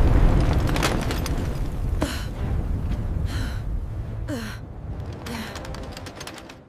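A deep low rumble, loudest in the first second, with four short gasping breaths over it about a second apart.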